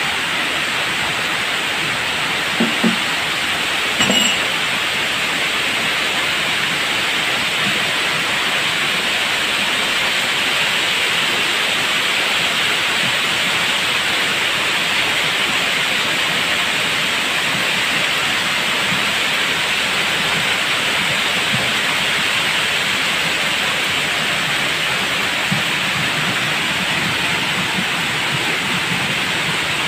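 Steady rain falling, an even hiss, with two brief knocks about three and four seconds in.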